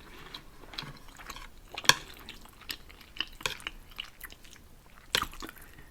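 Faint close-miked mouth and eating noises: soft chewing with scattered small clicks and smacks.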